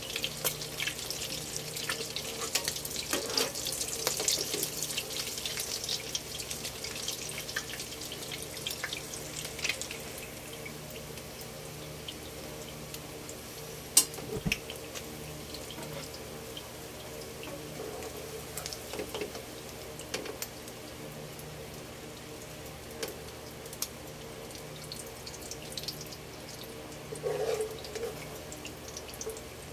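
Tuna-and-egg patties frying in oil in a nonstick pan: a steady sizzle with spattering crackles, busier in the first third and calmer after. One sharp click about halfway through, and a metal spatula scraping under a patty near the end.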